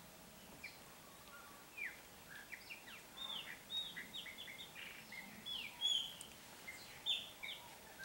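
Small birds chirping: a quick, irregular series of short, high, downward-sliding call notes, sparse at first and crowding together from about two seconds in until near the end.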